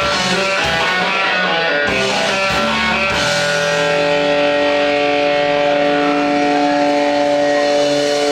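Rock music led by electric guitar: chords change quickly at first, then about three seconds in the guitar settles into long held notes that ring on.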